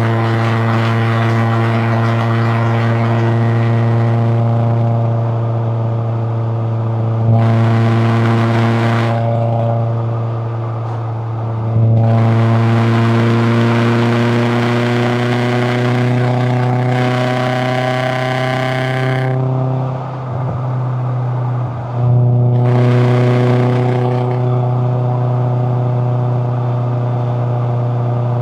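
Toyota AE86 Corolla Levin's 4A-GE twin-cam inline-four engine running under way. Its pitch rises and falls gently, with harsher, louder stretches as the throttle opens, and two brief drops in level about two-thirds of the way through, as when the throttle lifts for a gear change.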